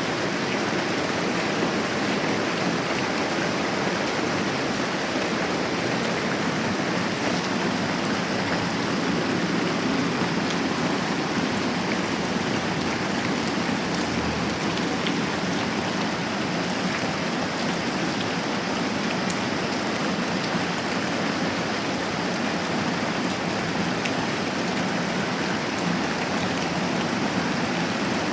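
Moderate rain falling steadily, an even hiss with a few faint scattered ticks.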